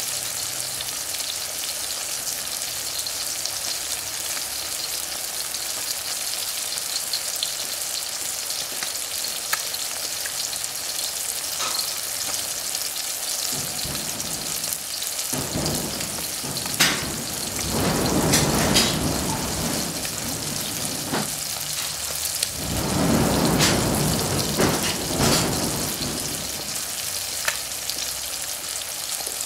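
Eggs frying in oil in a wok with sausage, tomato and peppers: a steady sizzle with scattered pops. About halfway through, and again a few seconds later, it swells into louder, deeper noise for a few seconds each time.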